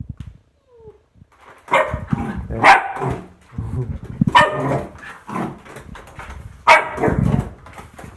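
Dog barking loudly, four sharp barks spread over several seconds after a brief quiet start, with scuffling sound between them.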